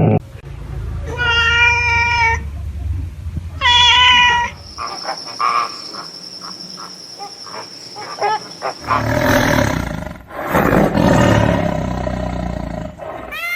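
A series of animal calls: two pitched cries about a second long in the first few seconds over a low rumble, then a steady high whine with scattered clicks, then harsher noisy calls near the end.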